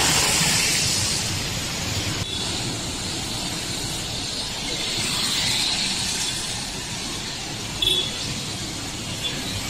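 Steady hiss of falling rain. About eight seconds in there is a brief louder sound as a vehicle passes close.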